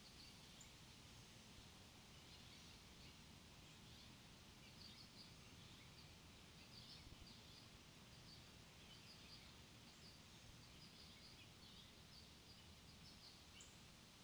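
Faint, short high chirps from small birds, scattered and busiest from about five seconds in, over a steady low background hiss.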